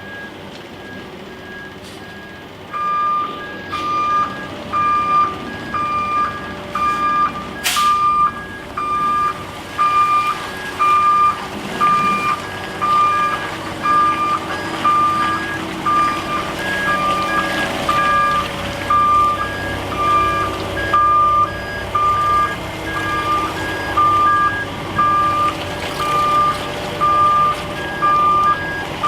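Truck backup alarms beeping. A fainter, higher-pitched alarm beeps from the start, and about three seconds in a louder, lower one joins it at roughly one beep a second. There is a single sharp click about eight seconds in.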